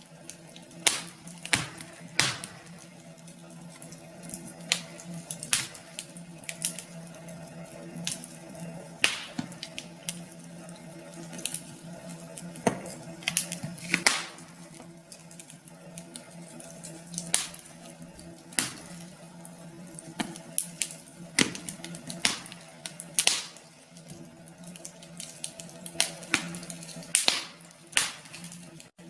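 Wood fire in a fireplace crackling, with sharp pops at irregular intervals, several a second at times, over a steady low background.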